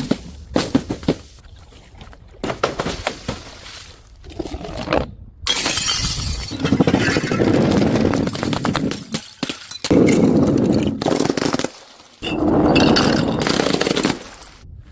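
Glass bottles breaking: a few sharp crashes, then three longer stretches of crunching and shattering glass.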